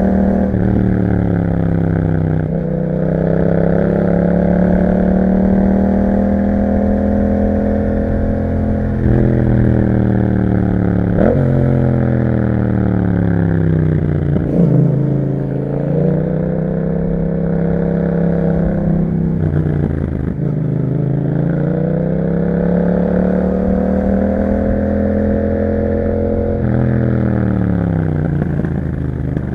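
Yamaha MT-07's 689 cc parallel-twin engine through an Akrapovic exhaust, riding along with the revs rising and falling over and over. There are quick pitch drops at gear changes, about two, eleven and fourteen seconds in, and longer slow-downs and pick-ups after that.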